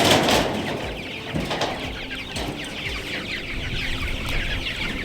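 A flock of young meat chickens in a chicken tractor, many short high peeps and clucks overlapping without a break. A louder burst of rustling noise comes right at the start.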